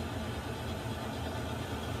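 Water heater running: a steady, even noise, heaviest in the low range, with no change or break.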